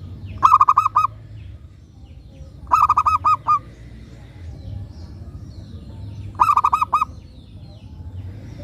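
Zebra dove (perkutut) singing: three short phrases of quick, repeated cooing notes, a few seconds apart.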